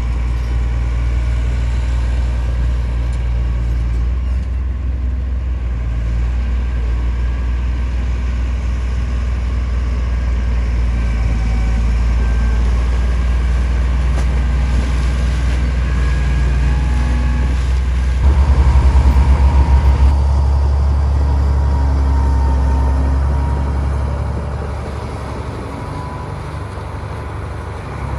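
Heavy diesel engine of earthmoving machinery running steadily with a low drone; about eighteen seconds in its note changes and pulses for a couple of seconds, and it quietens somewhat near the end.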